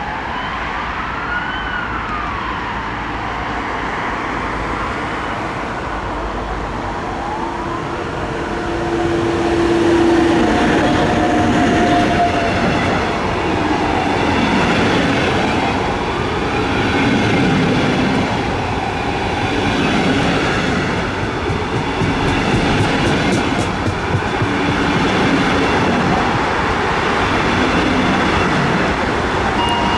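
A train running through the station, with steady rolling noise and squealing tones that repeatedly rise and fall in pitch. It grows louder about ten seconds in.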